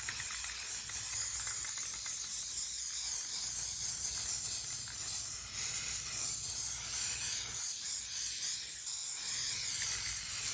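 Aerosol can of clear matte top coat spraying in a steady, continuous high hiss as a liberal coat is laid over a canvas.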